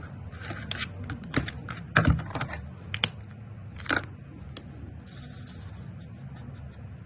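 Touch Twin alcohol markers being handled and drawn across paper: a few sharp clicks and knocks, the loudest about two seconds in, among short scratchy strokes of a marker tip.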